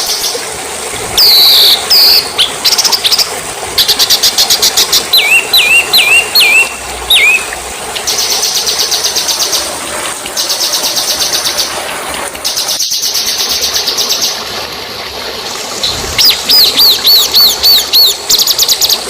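Songbird song from a bird-training (masteran) recording: blocks of rapid, even trills alternate with runs of short whistled notes that swoop downward, repeating throughout.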